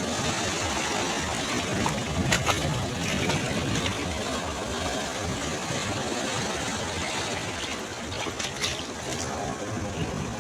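Sea waves washing on a beach: a steady rush of surf, with a few brief crackles about two seconds in and again near the end.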